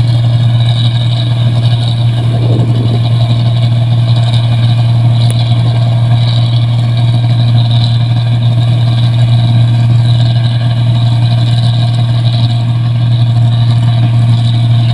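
Rice combine harvester running steadily while cutting paddy: a loud, constant low engine drone with a mechanical hiss over it.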